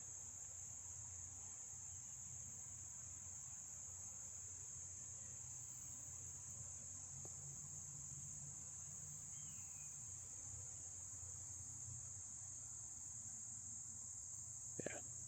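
Faint, steady high-pitched chorus of crickets, unbroken throughout. A short, sharper sound comes near the end.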